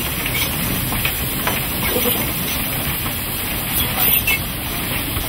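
Narrow-gauge steam train: a steady hiss and running noise with scattered light clicks.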